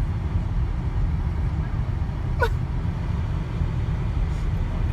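Steady low rumble of a car's engine and tyres heard from inside the cabin while driving slowly. One short falling squeak sounds about two and a half seconds in.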